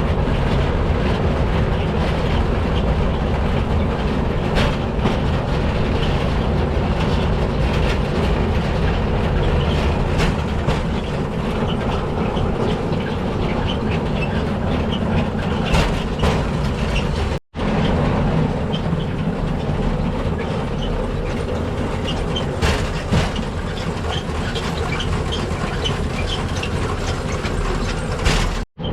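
Steel wheels of a pedal rail bike rolling along old railway track: a steady rumble with scattered clicks and clacks. The sound cuts out for an instant about two-thirds of the way through, and again near the end.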